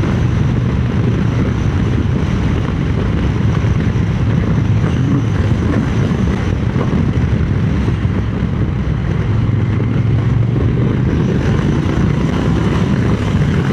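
Wind rushing over the microphone on a moving motorcycle, with the Triumph Speed Twin 900's parallel-twin engine running steadily underneath.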